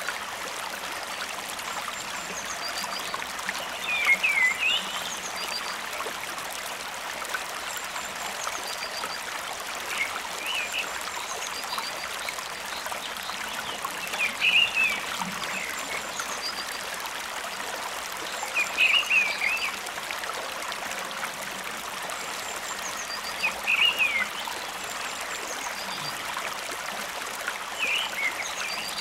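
Steady rush of flowing stream water, with a short chirping animal call that repeats about every four to five seconds.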